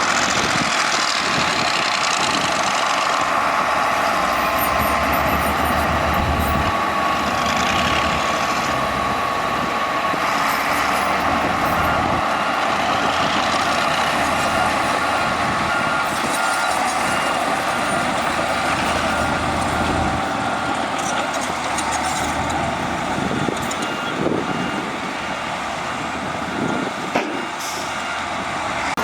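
Heavy diesel earthmoving machinery running under load, with a reversing alarm giving repeated short beeps through the second half.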